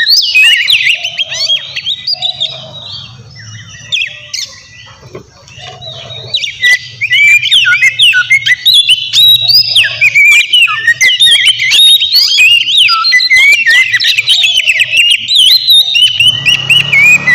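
Oriental magpie-robin (kacer) singing energetically: a fast, varied stream of sharp whistles, chirps and trills that slackens for a few seconds near the start and then comes back loud and unbroken.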